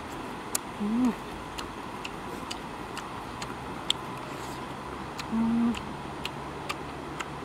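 A person eating fried chicken with their hands: sharp chewing and lip-smacking clicks every half second or so, with two short closed-mouth 'mm' hums, one about a second in and one just past five seconds.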